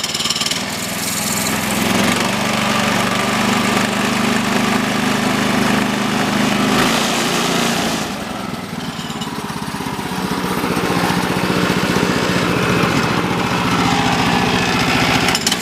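Kohler engine of a Woodland Mills HM130 Max sawmill running steadily. Its speed and level dip about halfway through, then pick up again. Something is wrong in the blade drive: the band blade has slipped off its wheels.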